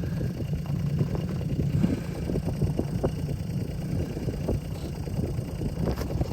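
Strong wind buffeting an unshielded microphone: a steady low rumble with irregular gusty flutter.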